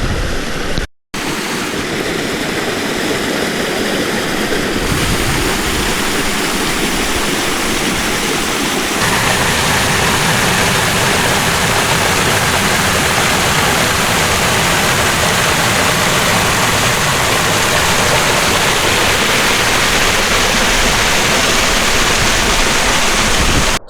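Seasonal waterfall rushing loudly and steadily close to the microphone, broken by a brief dropout about a second in.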